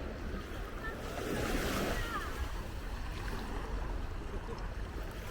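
Sea waves breaking and washing up the beach, one swelling louder about a second in, with a low wind rumble on the microphone.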